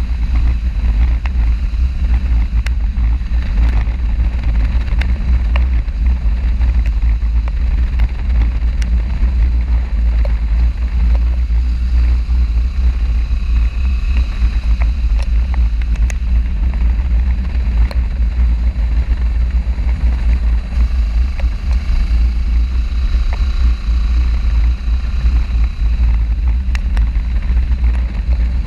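Wind buffeting the microphone of a camera on a moving motorcycle, a steady heavy rumble, with the motorcycle's engine running underneath.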